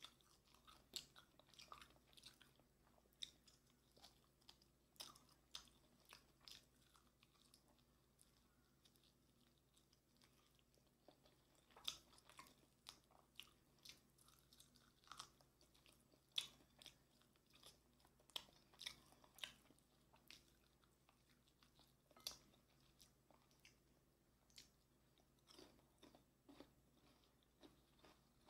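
Close-miked eating of sauce-glazed Korean fried chicken (yangnyeom chicken): irregular crisp crunches and wet chewing as the coating and meat are bitten and chewed, in clusters with quieter pauses between.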